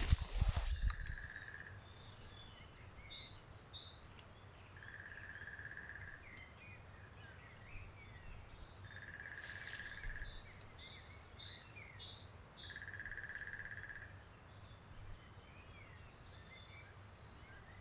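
Faint forest birdsong from small songbirds: high, thin chirps and short trills, with a steady whistled note repeated four times about four seconds apart.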